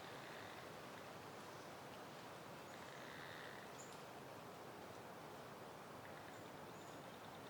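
Faint, steady outdoor breeze noise, with a few brief, faint high bird chirps about halfway through and again near the end.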